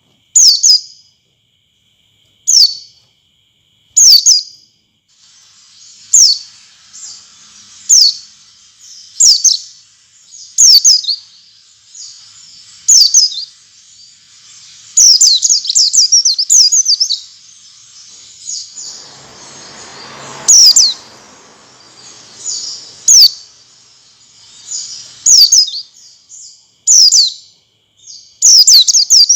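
White-eye (pleci) calling in short, high, sharp chirps, one every second or two at first, then coming thicker from about six seconds in over a faint high hiss. This is a lure call of the kind used to set caged pleci singing. A brief lower rushing noise swells and fades around twenty seconds in.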